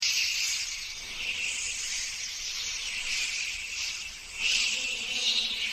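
A steady, high-pitched insect chorus that swells a little about four and a half seconds in.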